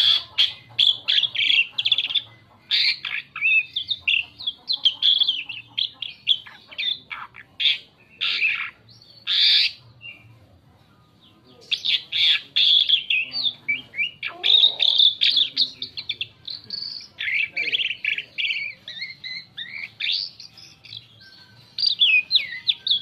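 Asian pied starling singing a long, varied song of rapid whistles, chatters and squeaky notes, with a short pause about ten seconds in before the song resumes.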